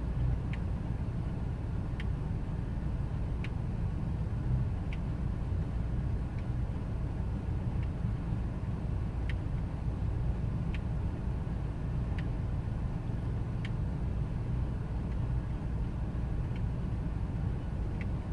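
2000 Ford Expedition's 5.4-litre V8 idling steadily, with a faint tick about every second and a half. The engine has the rough idle the owner is chasing.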